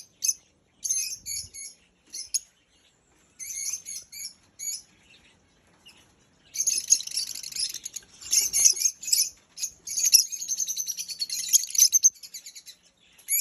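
Lovebirds chattering with rapid, high-pitched chirps, in short scattered bursts at first and then almost without pause from about halfway through.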